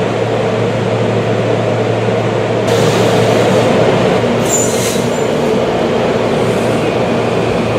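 Commuter train running at a station platform: a steady rumble and hum that gets louder and brighter about three seconds in, with a brief high-pitched squeal a little later.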